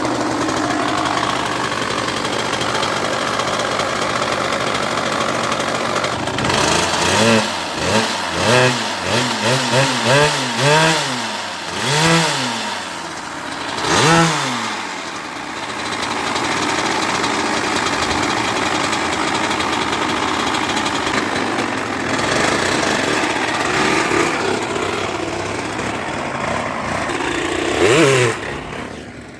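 Freshly rebuilt Kawasaki KX100 two-stroke single-cylinder dirt bike engine running steadily. Between about 7 and 15 seconds it is revved in a quick series of throttle blips, roughly a dozen. It then settles back to a steady run, with one more short rev near the end.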